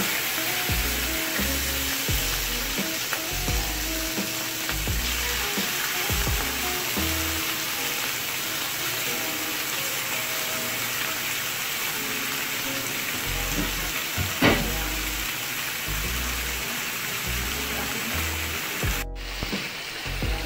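Fish fillets sizzling as they fry in hot oil in a skillet: a steady hiss, with one sharp click about two thirds of the way through and a brief dropout near the end. Background music with a bass line plays underneath.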